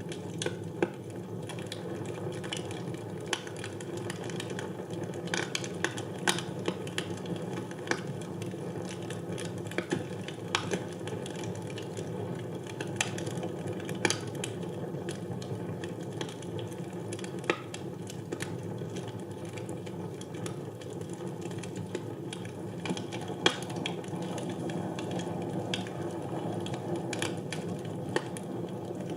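Wood fire burning in a fireplace: a steady low hiss of the flames with frequent, irregular sharp pops and snaps of the burning wood.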